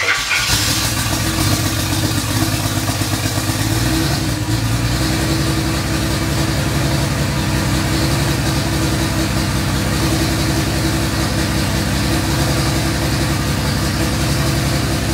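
Freshly rebuilt twin-turbo GM Vortec 4200 straight-six running just after being started, with raised revs at first that settle into a steady idle about four to five seconds in.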